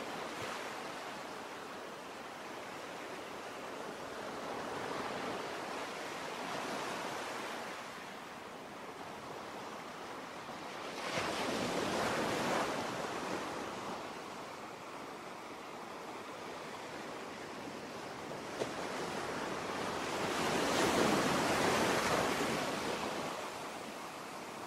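Sea waves washing in: slow swells of surf, each rising and falling over a few seconds. The strongest come about eleven seconds in and again near the end.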